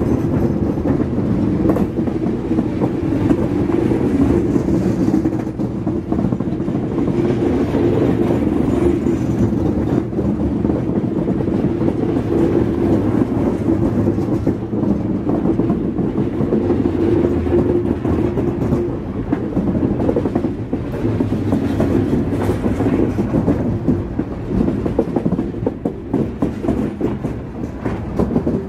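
Coal train's hopper cars rolling past close by: steel wheels running on the rails with a clickety-clack over the rail joints and a steady hum underneath.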